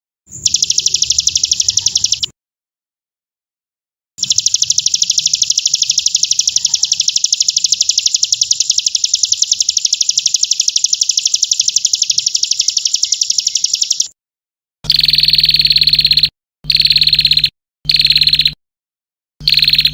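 Recorded songbird song: a brief rapid high trill, then after a pause a long unbroken trill of about ten seconds, followed by four short bursts of song, each starting and stopping abruptly as if edited.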